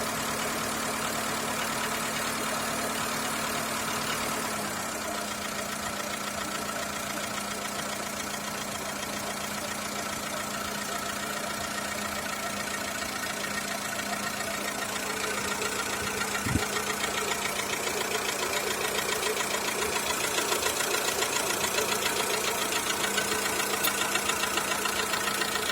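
Skoda Fabia II 1.4 engine idling with a knock from the engine. It gives one sharp click about sixteen seconds in, and it grows louder with an even pulsing over the last third.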